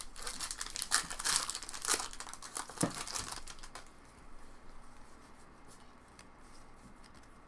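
Trading-card pack wrappers crinkling and tearing open, with dense crackle for the first few seconds that gives way to fainter, scattered ticks of cards being handled.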